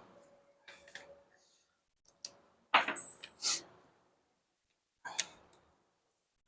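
A few short clicks and clatters of small hardware and tools being handled, loudest about three seconds in, with a fainter group about five seconds in.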